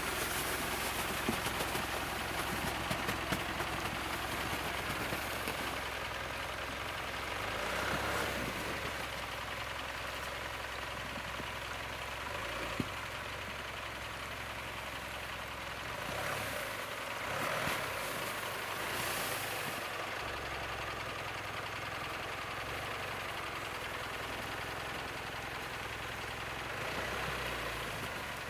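Mitsubishi Pajero Sport SUV driving slowly over rough ground: a steady low engine hum with noise from the tyres and body, a few sharp knocks in the first few seconds, and swells of louder noise twice later on.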